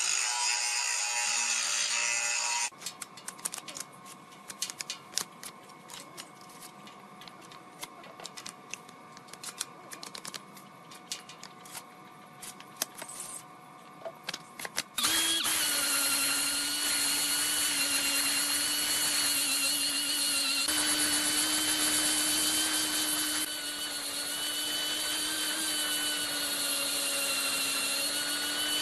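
A loud, noisy tool sound stops about three seconds in. Scattered light clicks and taps follow. About halfway through, a power tool's motor starts and runs steadily with a high whine.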